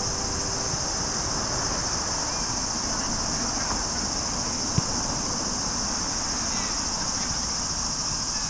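Steady high-pitched chorus of insects droning without a break, over a low rumble, with a single sharp knock about five seconds in.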